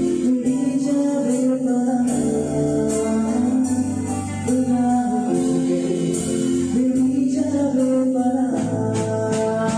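Live band music: a voice singing long, held melody lines over guitar with light, steady percussion.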